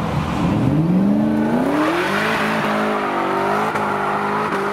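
Car engine speeding up, its pitch rising over about two seconds and then holding fairly steady.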